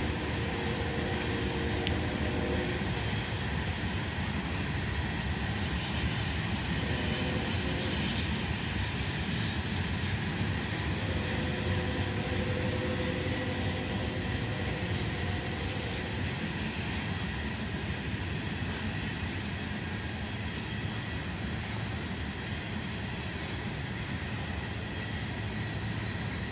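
Freight train cars rolling past on the track: a steady rumble of wheels on rail that eases slightly in the second half.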